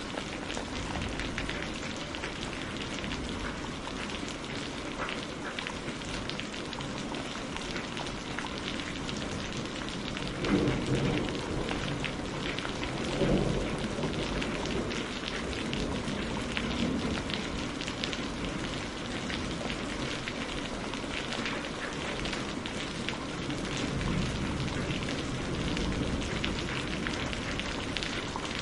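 Steady rain with a dense patter of drops. Two low rumbles of thunder swell up about ten and thirteen seconds in.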